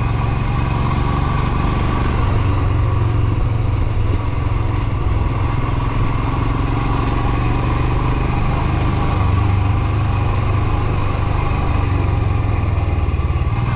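Royal Enfield Himalayan's 411 cc single-cylinder engine running at a steady pitch.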